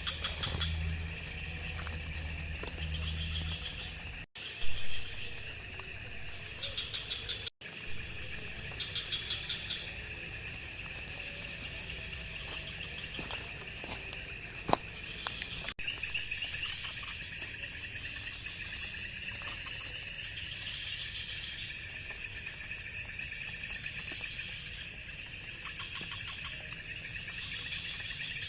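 Insects and crickets in a steady high-pitched chorus of trills and chirps. The sound cuts out completely for a moment twice in the first few seconds, and a couple of short loud sounds stand out, one about five seconds in and one about halfway.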